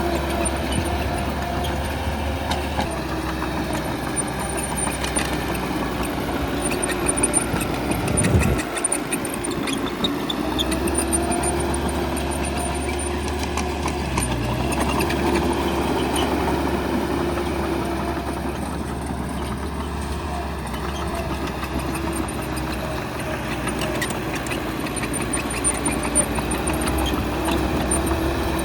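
Bulldozer's diesel engine running under working load, its pitch rising and falling over several seconds, with a brief dip in the low rumble about eight seconds in.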